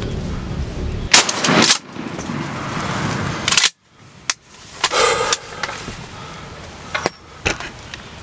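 A gunshot about a second in, fired at a gobbler. It is followed by another loud burst of noise and several sharp knocks.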